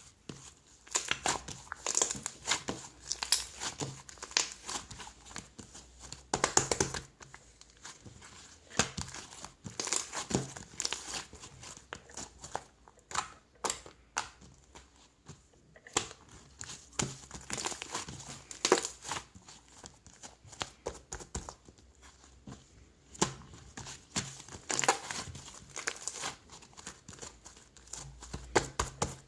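Crinkling and crackling handling noise, like material being crumpled or rustled, coming in irregular bursts with short pauses between them.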